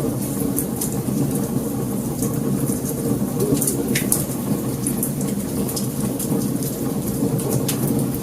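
Wood fire burning, with irregular sharp crackles and pops over a steady low rumble of flames. One stronger pop comes about four seconds in.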